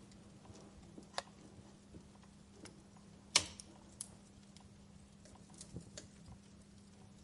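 Firewood crackling in a fireplace: scattered small snaps and pops, with one loud pop a little past three seconds in.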